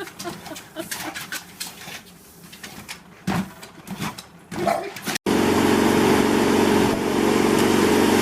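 Scattered knocks and clicks, then, after an abrupt cut about five seconds in, a loud steady motor hum.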